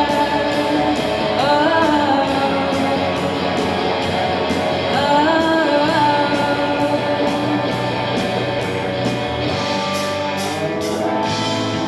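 Live rock band playing an instrumental stretch of a pop-rock song: a gliding lead melody over guitar and bass chords, with drums keeping a cymbal tick about twice a second and a few cymbal hits near the end.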